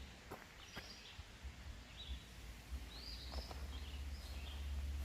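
A songbird singing short repeated phrases, one every second or so, over a low rumble that swells near the end, with a few faint clicks.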